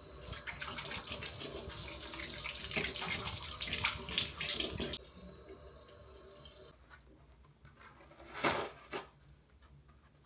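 Water running from a sink tap for about five seconds, then cut off suddenly. Two short swishes follow near the end.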